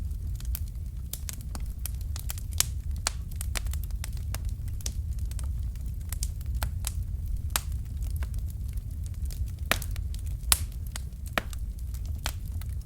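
Fire crackling in a fireplace: dense, irregular pops and snaps over a steady low rumble, with a few sharper, louder pops, one a few seconds in and one near the end.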